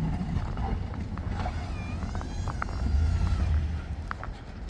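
Engine of a snow-clearing vehicle running with a low rumble that swells about three seconds in, with a few sharp clicks.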